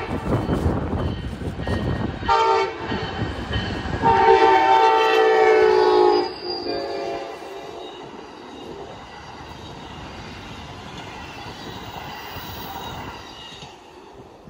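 Passenger train passing a grade crossing and sounding its air horn: a chord at the start over a loud rumble, a short blast about two seconds in, and a long blast from about four to six seconds in, the close of the long-long-short-long crossing signal. Then the cars run past with a steady rumble that fades near the end.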